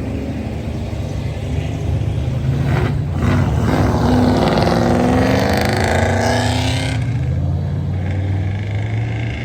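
Car engine running steadily, then rising in pitch and getting louder for about three seconds as it is revved or accelerates, before settling back.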